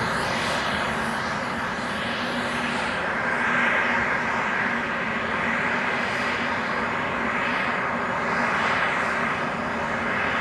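Airbus A320neo's CFM LEAP-1A jet engines running steadily: an even, continuous rush with a faint low hum underneath.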